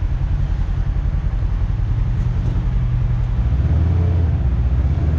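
Kawasaki KRX side-by-side's engine running steadily while driving, its note shifting lower and stronger about three and a half seconds in.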